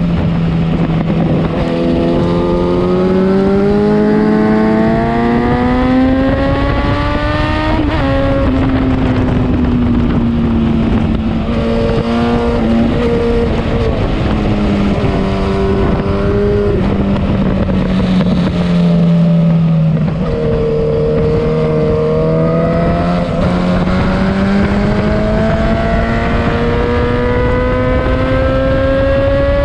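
Motorcycle engine ridden hard on a race circuit: its pitch climbs steadily for about six seconds, drops sharply about eight seconds in, eases down for a long stretch, then climbs again through the last ten seconds. Wind rushes over the microphone.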